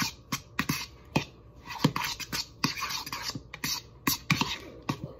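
A utensil scraping and clicking against a bowl as egg and shredded cheese are stirred together, in quick irregular strokes.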